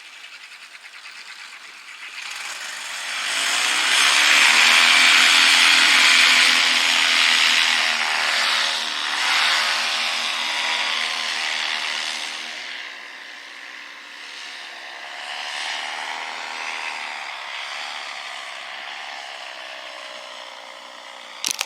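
A small engine running with a rushing noise over it. It swells a few seconds in, stays loud for several seconds, then eases to a quieter drone. A sharp click comes near the end.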